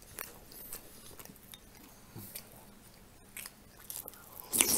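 Close-up mouth sounds of a person eating blini: quiet chewing with small wet clicks, then a louder sharp mouth noise near the end as a spoonful of strawberry jam is taken into the mouth.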